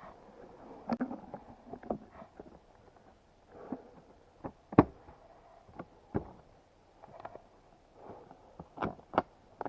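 Scattered knocks and clicks of someone handling a crashed dirt bike with its engine off, the sharpest about five seconds in and a pair near the end.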